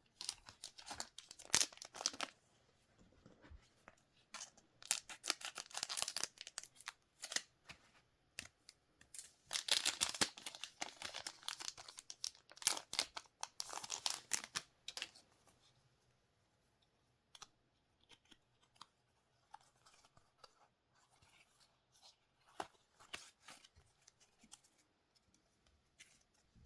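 Trading-card packaging being torn open and crinkled by hand, dense ripping and rustling for about fifteen seconds, then only scattered light rustles and ticks.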